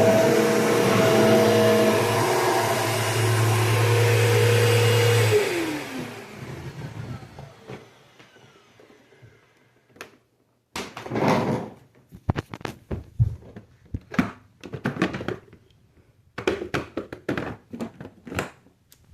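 Bissell PowerForce Bagless Turbo 6596 vacuum cleaner running steadily, then switched off about five seconds in, its motor whining down in pitch and fading over a few seconds. After a short quiet spell, a run of irregular clicks and knocks.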